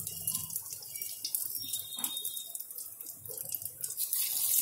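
Batter-coated paneer cubes deep-frying in hot oil, a steady crackling sizzle that grows louder near the end.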